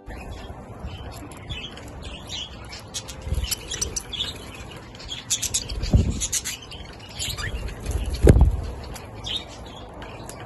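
Budgerigars chattering with many short high chirps, with two dull low thumps about six and eight seconds in.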